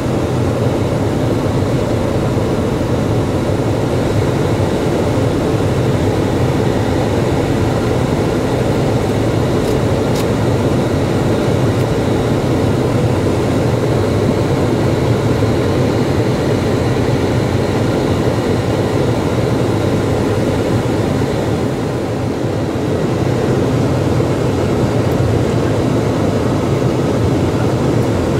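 Steady storm wind blowing across the microphone, a constant low noise with no breaks.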